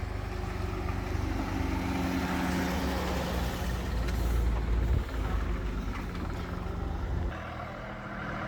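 A motor vehicle engine running steadily with a low hum, its heavy low rumble dropping away about seven seconds in.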